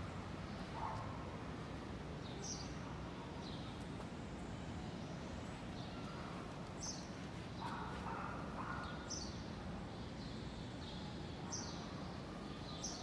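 Small birds chirping, short high calls every second or few, over a steady low hum of city background noise.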